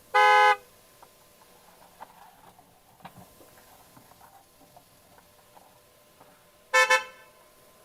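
A short electronic beep, then faint clicks and taps of plastic toys being moved. Near the end comes a quick double beep.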